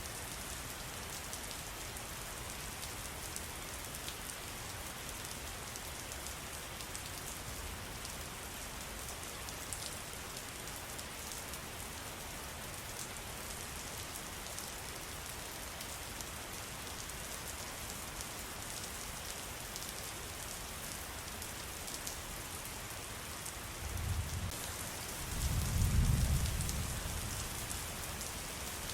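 Steady rain falling, with a patter of drops, and a low rumble that swells near the end.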